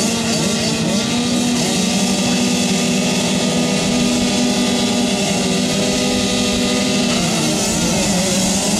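Motocross dirt bike engines running at high revs, a loud steady engine note with a slight change in pitch near the end.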